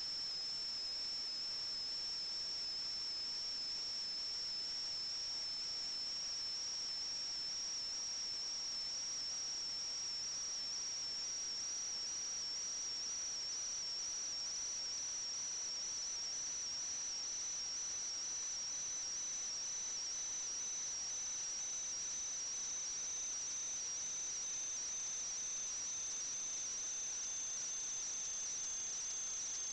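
Steady high-pitched whine over a constant hiss, its pitch creeping slowly upward, with a fainter second tone sliding downward in the latter half.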